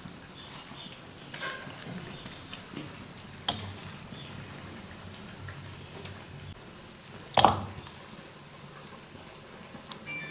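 Cooked noodles being ladled out of a pot of boiling water into a bowl: faint watery and boiling sounds with light utensil knocks, and one sharp ringing clink of utensil on bowl or pot about seven seconds in. A faint steady high whine runs underneath.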